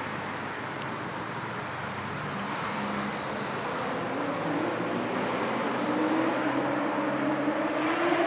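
City street traffic: a steady rush of passing cars and tyre noise. About halfway through, one vehicle's engine grows louder and climbs slowly in pitch as it accelerates nearer.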